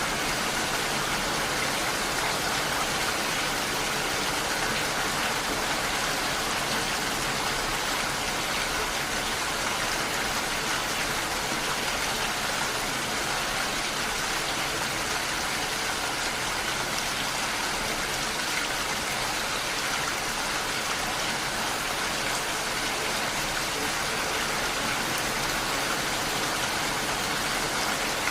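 Heavy rain falling steadily, an even dense hiss of drops with no letup.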